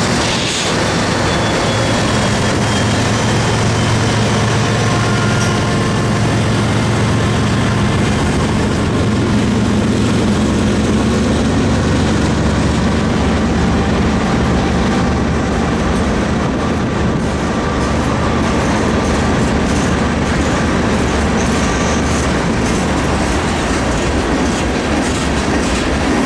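Diesel locomotives of a CSX freight train passing close by, their engine drone fading over the first ten seconds or so, then freight cars rolling past with a steady wheel rumble and rhythmic clickety-clack.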